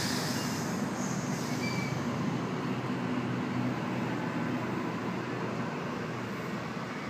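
Sydney Trains Waratah (A-set) electric passenger train pulling away from the platform, its running noise steady and slowly fading.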